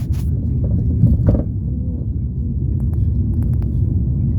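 Steady low rumble of a car on the road, heard from inside the cabin, with a few faint clicks.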